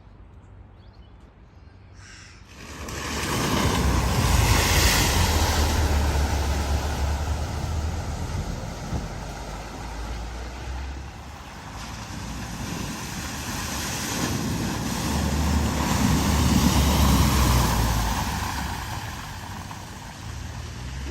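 A vehicle driving through a flooded ford: water rushing and splashing around it over a low engine rumble. It starts about two and a half seconds in, swells twice and fades near the end.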